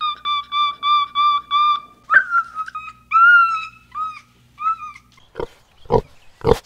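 Barbary macaque's high, whistle-like calls: a quick series of short, even notes, then a few longer calls that bend up and down in pitch. About five seconds in they give way to wild boar piglets' short grunts and squeals.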